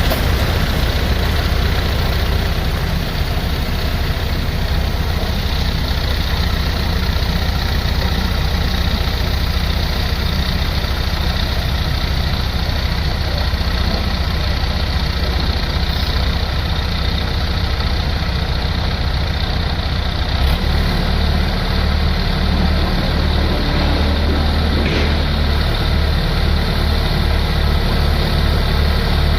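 Heavy diesel engine of a construction machine running steadily near idle, its low hum turning into an uneven pulsing about two-thirds of the way through.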